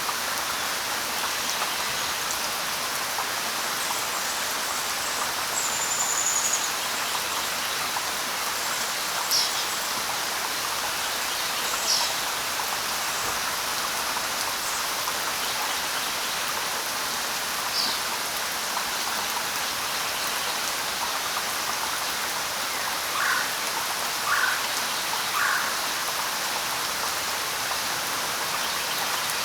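Steady light rain hissing, with a few short bird calls scattered over it: a brief high whistle, several quick high chirps, and three short lower calls close together near the end.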